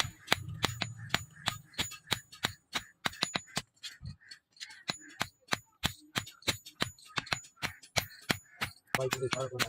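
Hammer striking leaf-spring steel on an anvil, about three or four sharp, ringing metal blows a second, as the blade is forged.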